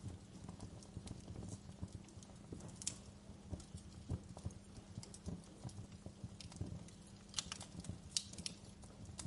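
Wood fire crackling in a fireplace: a steady run of small pops and snaps, with a few sharper snaps about three seconds in and again near the end.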